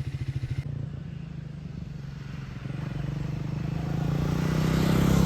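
Triumph Speed 400's 400 cc single-cylinder engine idling with an even beat, then, after an abrupt cut a little over half a second in, running on and growing steadily louder over the last couple of seconds.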